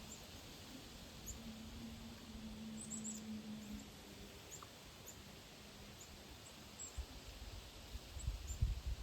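Birds chirping outdoors: many short, high, scattered chirps. A low steady hum runs under them for the first few seconds, and there are a few low bumps near the end.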